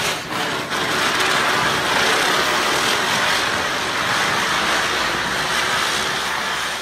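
A Diwali chakri (ground-spinner firework) burning as it spins, giving a steady, loud fizzing hiss as it sprays sparks.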